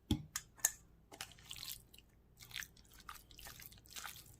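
Sliced raw chicken being mixed with seasoning and browning liquid: irregular wet squishing and smacking, after a dull knock at the very start.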